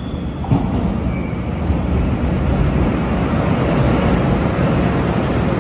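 Train passing: a steady rumble of wheels on rail, growing a little louder, with a sharp click about half a second in.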